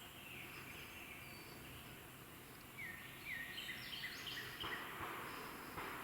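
A small bird singing a quick run of short, high chirping notes about halfway through, over a faint outdoor background hiss that grows louder near the end.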